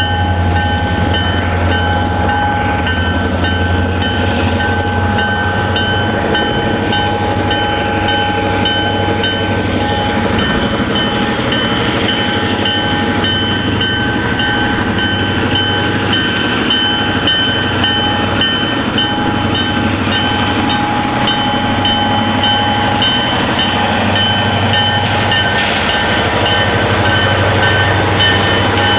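CN freight train rolling past: a steady rumble of the cars on the rails, with a constant high whine over it and a few sharp clicks of wheels over the track near the end.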